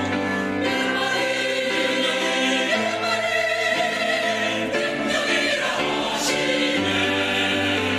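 Church choir singing a hymn anthem in full harmony, holding sustained chords that change about every two seconds.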